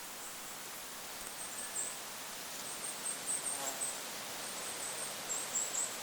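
Goldcrest singing: three runs of rapid, very high, thin notes, over a steady hiss of wind.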